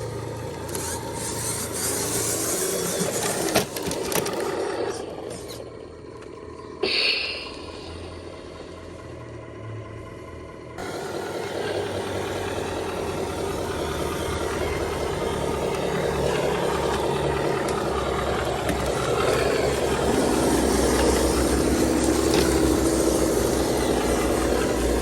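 Diesel engine of a heavily loaded Hino 500 truck running, with a sharp click a few seconds in and a brief high squeal about seven seconds in. The sound changes abruptly about eleven seconds in, then grows steadily louder.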